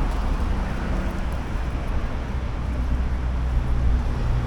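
Street traffic: a low, steady motor-vehicle engine rumble with a faint hum that grows stronger in the second half, over general city noise.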